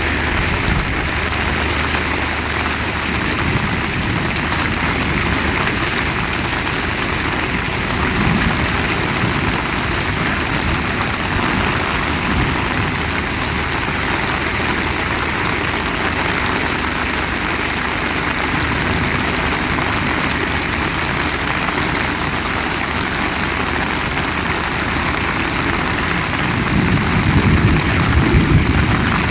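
Heavy rain falling steadily, a dense even hiss. About two seconds before the end a low rumble swells up and fades.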